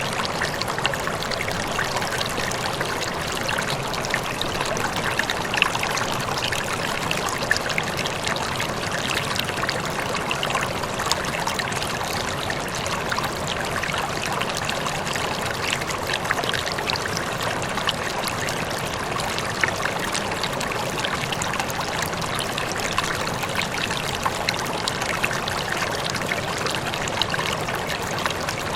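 Running water flowing steadily, with small splashes and trickles scattered through it.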